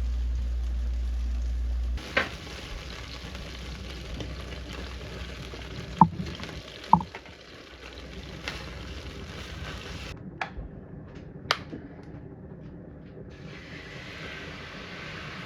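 Food sizzling in a frying pan, with a few sharp knocks and clinks of a utensil against the pan. A loud low hum fills the first two seconds.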